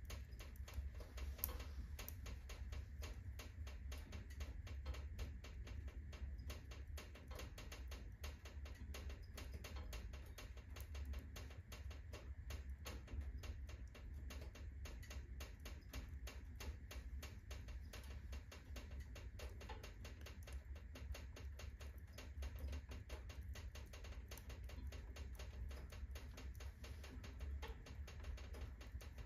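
Firewood burning at full blaze in a fireplace, crackling with a dense run of small snaps over a steady low rumble.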